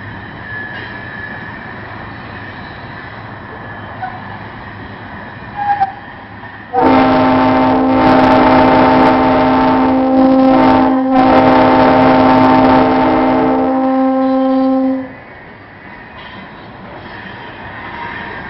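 Diesel locomotive horn sounding a chord of several tones in two long blasts, the second following almost at once, over the steady rumble of a freight train's locomotives working upgrade.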